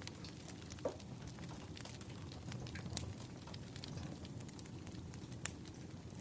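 Burning firewood crackling, with irregular sharp pops over a steady low rumble; the loudest pop comes about five seconds in.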